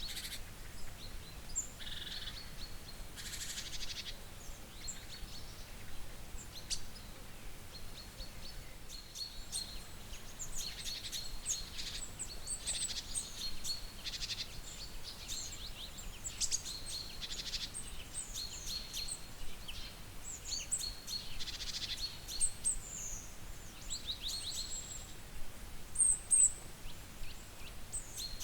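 Wild birds chirping and calling, with many short, high calls and brief trills throughout over a faint background hiss.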